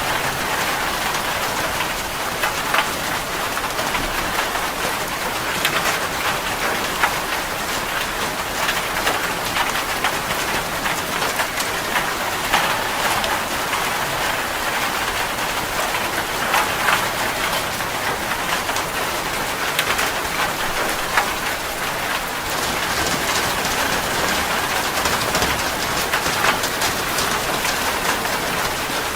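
Heavy rain falling on a metal roof: a steady hiss with a dense patter of individual drop hits.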